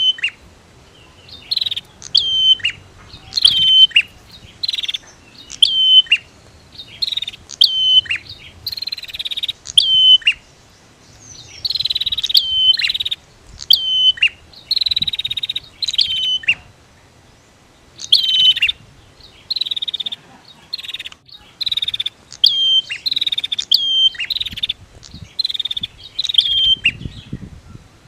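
Prinias (prenjak), male and female, calling in quick, sharp, chattering phrases, each about a second long, repeated with short pauses between them.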